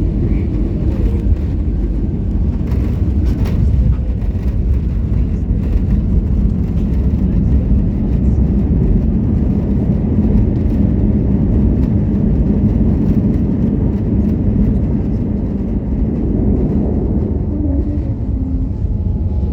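Steady low rumble inside the cabin of an Airbus A320 on the ground just after landing: engine and rolling noise heard through the fuselage.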